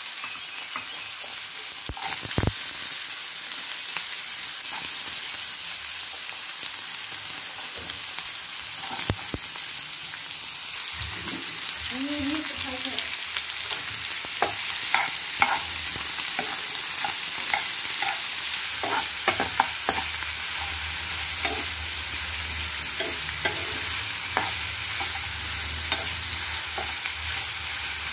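Diced carrots sizzling in hot oil in a nonstick frying pan, a steady hiss. From about halfway through, a spatula scrapes and taps against the pan as they are stirred.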